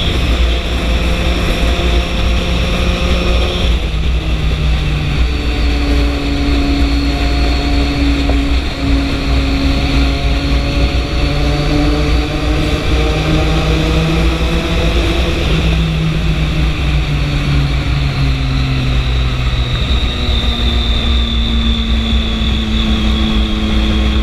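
Triumph 675 motorcycle's inline three-cylinder engine running under way, its pitch stepping a few times with throttle and gear changes, over a steady low wind rumble.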